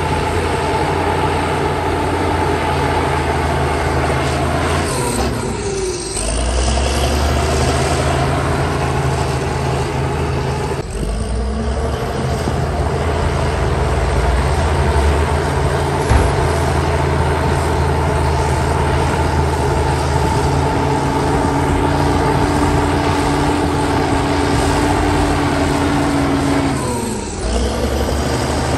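Heavy diesel engine of earthmoving machinery running steadily, with brief dips in the sound three times.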